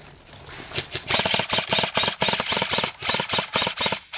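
Airsoft gun firing a long string of rapid shots, about seven a second, starting about a second in, with a brief pause just before the end.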